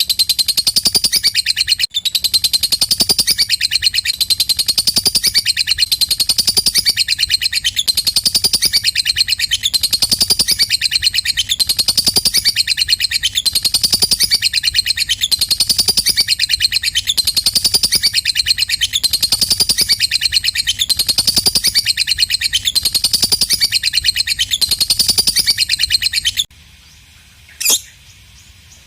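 Lovebird 'ngekek' song: a long, unbroken, rapid high chatter that repeats a phrase about once a second. It stops about 26 seconds in, and a couple of short chirps follow near the end.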